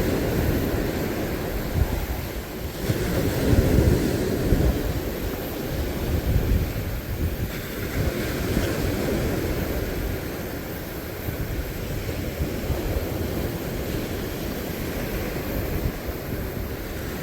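Wind buffeting the microphone over the steady wash of sea surf, a low rumbling noise that swells and eases every few seconds.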